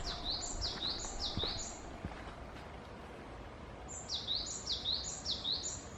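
A songbird singing two short phrases, each of about four quickly repeated high, sliding notes, with a pause of about two seconds between the phrases.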